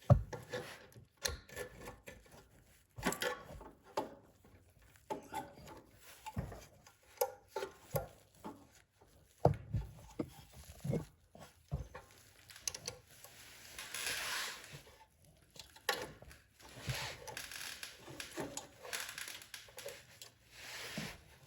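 Hands and tools working on a snowblower carburetor while hooking up the throttle butterfly linkage: scattered small clicks and knocks, with a few short stretches of rustling.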